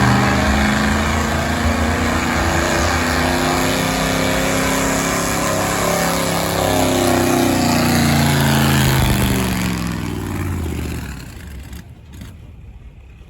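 Stock gas pickup truck engine held at full throttle as the truck pulls the sled, its pitch wavering and rising for a while past the middle. The engine sound drops away quickly about ten seconds in.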